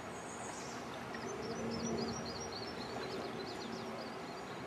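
A small songbird singing a quick run of short, high chirps, about four or five a second, from about a second in until near the end, over steady outdoor background noise.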